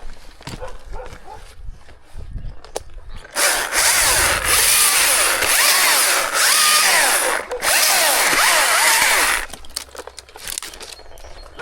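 Chainsaw cutting wood at full speed. It starts about three seconds in, runs for about six seconds with a brief break partway through, and drops back to quieter knocks and handling sounds near the end.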